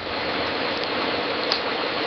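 Fireplace crackling: a steady hiss of burning wood with small snaps, and one sharper pop about one and a half seconds in.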